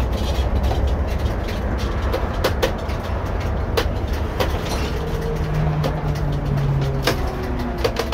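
Irisbus Récréo II coach on the move, heard from the driver's seat: a steady low engine drone with sharp rattles and knocks from the body and fittings. A steadier, higher engine note holds for about two seconds past the middle.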